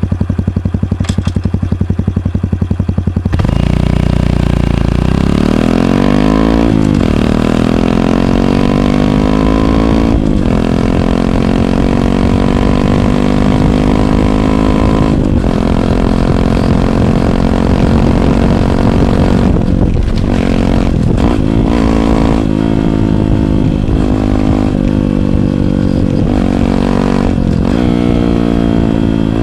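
Honda CT125 Hunter Cub's 125 cc single-cylinder four-stroke engine through a Minimoto SP classic muffler with no baffle, heard right beside the muffler. It idles with an even pulse, then pulls away about three seconds in, the revs rising and dropping as it shifts up through the gears. It then runs on at speed with a few brief throttle lifts.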